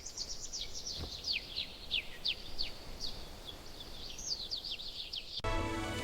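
Small birds chirping, a rapid run of short, high chirps that each drop in pitch. The chirping cuts off abruptly about five seconds in, and music with held notes starts.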